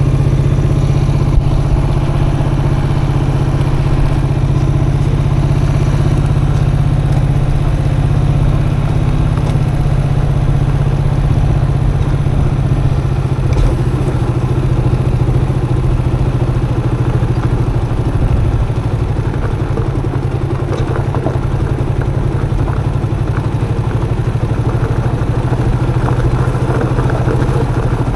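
Custom motorcycle engine running at a steady pace while riding, a constant low drone. From about 18 seconds in, scattered rattles and knocks join it.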